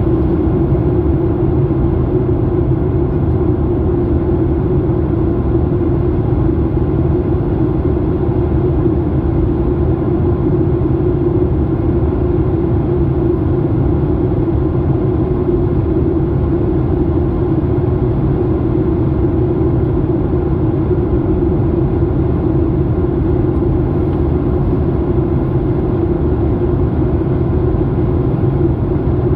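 Steady cabin drone of an airliner in flight: engine and airflow noise heard from inside the cabin, with a constant low hum that does not change.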